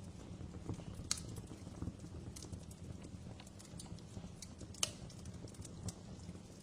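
Wood fire crackling: a steady low rumble of flames with scattered small pops and snaps, two sharper, louder pops about a second in and again near five seconds.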